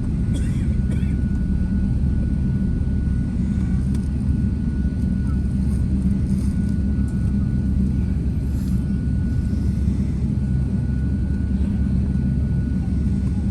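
Steady low rumble of airliner jet engines, with a thin steady whine above it.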